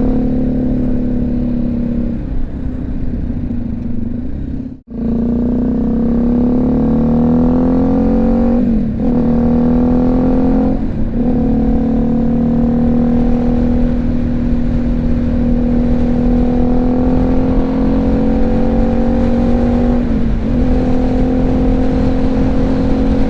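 BMW G310GS single-cylinder engine pulling through the gears, heard from inside the helmet over a steady rush of wind noise. The engine note climbs slowly and drops at three gear changes, near 9, 11 and 20 seconds in. The sound cuts out briefly about five seconds in.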